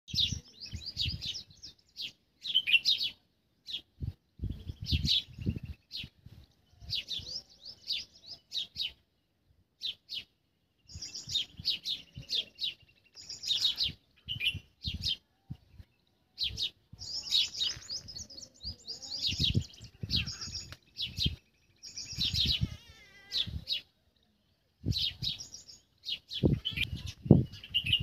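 Small birds chirping and twittering in repeated bursts of quick, high chirps with short pauses between them, along with intermittent low rumbling bursts.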